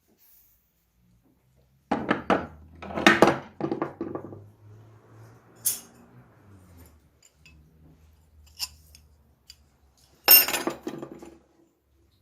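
Metal parts clinking and clattering as they are handled. There are two bursts of clatter, about two seconds in and about ten seconds in, with a few single sharp clicks between them.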